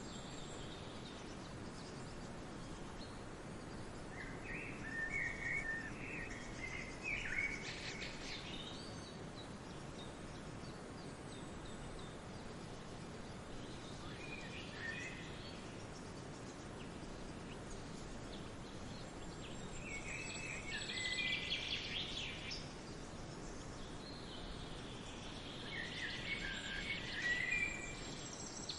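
Songbirds singing in short chirping phrases, in several separate spells, over a steady background hiss of wind or distant water.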